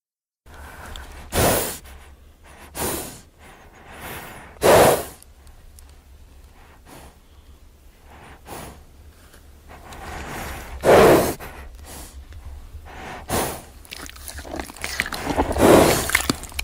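Horse snorting and blowing through its nostrils in about six short, forceful breaths, spaced irregularly a few seconds apart.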